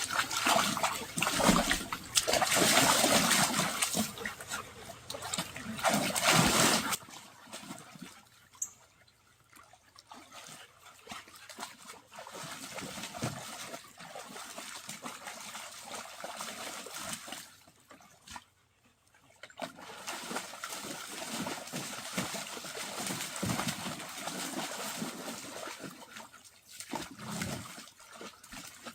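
Pool water splashing and trickling as dogs play in it. It is loudest for about the first seven seconds, then lighter and more broken.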